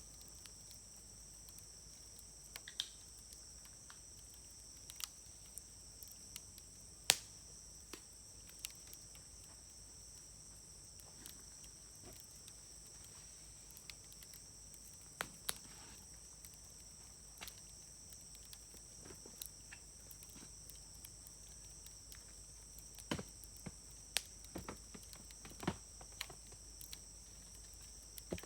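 Wood fire crackling with scattered sharp pops, the loudest about seven seconds in and a cluster near the end. Beneath it a steady, high-pitched trilling of insects runs on.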